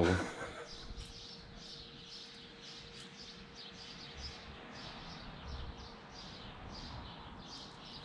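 Small birds chirping repeatedly, a few short high chirps a second, over faint outdoor background.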